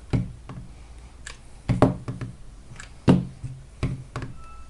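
Sharp knocks and taps, about five of them spread out, from battery cells being handled and set down on a workbench while they are glued into cell groups.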